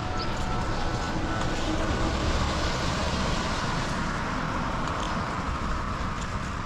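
A car passing on a wet road: tyre hiss on the wet surface over the engine's rumble, swelling to a peak a few seconds in and fading, with rain falling throughout.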